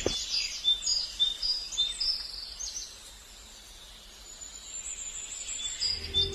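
Small birds chirping: many short, high repeated notes, then a longer high trill in the middle. Music comes in near the end.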